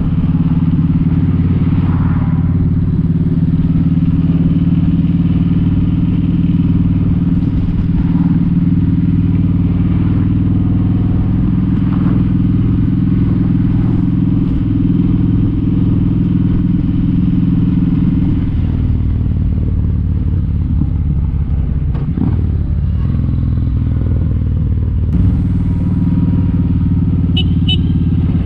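Kawasaki Vulcan 1700 Vaquero's V-twin engine running steadily under way, heard from the rider's seat. Its note drops to a lower pitch about two-thirds of the way through.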